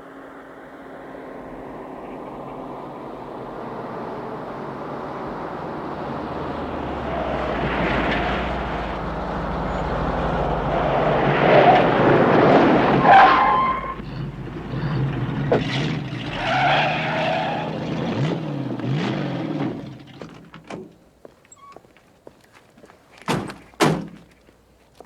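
A car approaching at speed, its engine and tyres growing steadily louder, passing by loudest about halfway through and falling away with a dropping pitch; two sharp knocks near the end.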